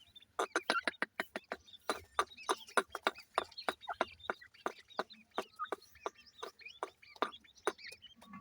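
Grey francolin chicks calling: a rapid, irregular string of short, sharp chirps, several a second, overlapping from more than one bird.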